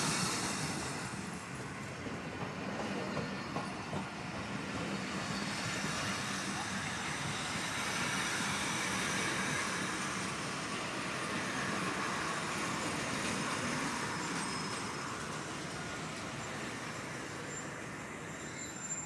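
Passenger train coaches rolling past slowly as the express pulls in to stop, steady wheel-on-rail rumble and clatter, with faint high wheel squeals in the second half.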